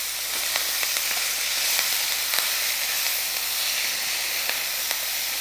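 Fresh drumstick (moringa) leaves sizzling steadily as they go into a hot pan of chillies, dals, garlic and onion frying in a little oil, stirred with a silicone spatula. Faint small crackles run through the hiss.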